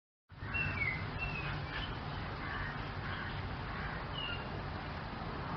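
A few short, high bird chirps over a steady low rumble of outdoor background noise, which starts abruptly a moment in.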